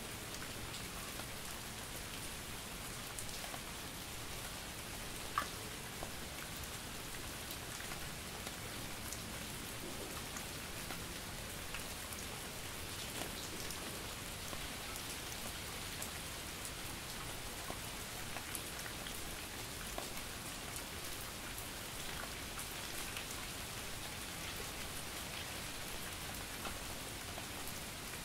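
Steady light rain and drizzle, a dense patter of fine drops landing on a surface, with an occasional single louder drop, one about five seconds in.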